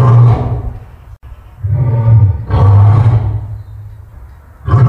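Lion roaring: a run of deep roars, each about a second long, one after another with short gaps, and a fresh roar starting right at the end.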